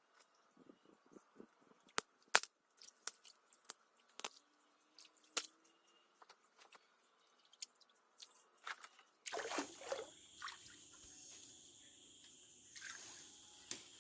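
A run of sharp, scattered clicks and ticks. About nine seconds in, the sound changes abruptly to a steady chorus of insects such as crickets, with high, even chirring.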